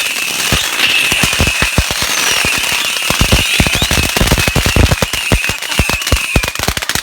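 Firework going off in a rapid, irregular string of cracks and pops, several a second, over a steady high hiss that dies away shortly before the end.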